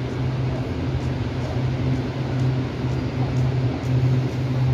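Stationary electric commuter train idling at the platform, its onboard equipment giving off a steady low hum.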